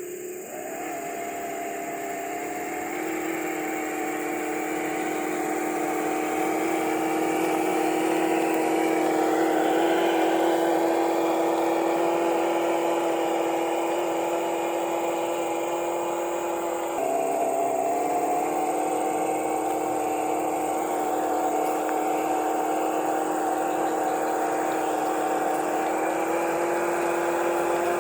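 Electric motor and gear drive of an RC truck whining steadily under way. The pitch climbs over the first few seconds, drops briefly about two-thirds of the way through as the truck slows, then climbs back.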